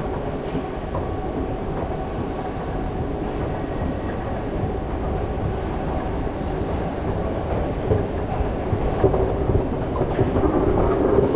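Steady low rumble of vehicle noise with a faint steady hum in it, growing a little louder over the last few seconds.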